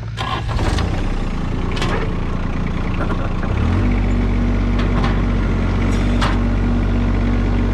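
Tractor engine running under the operator's control, its revs and loudness stepping up about three and a half seconds in and then holding steady, with a few sharp clanks along the way.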